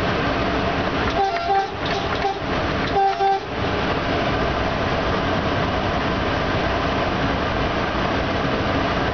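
Train horn sounding two short blasts, about a second in and again about three seconds in, over the steady rumble of a locomotive running at speed, heard from inside the cab.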